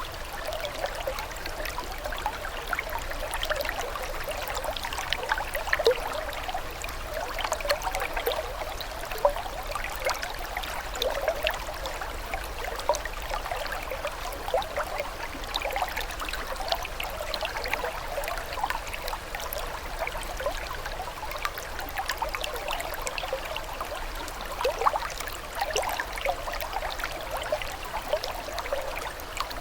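Running water trickling and babbling steadily, full of small quick splashes and gurgles.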